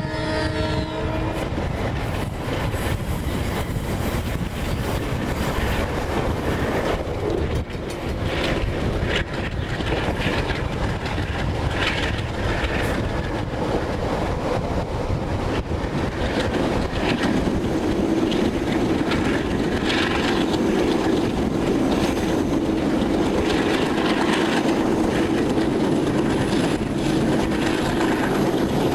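Passenger train running at speed, heard from a carriage window: a steady rumble of wheels on the track and wind, with irregular rail clicks. A horn blast is dying away at the very start, and a steady low hum comes in about halfway through.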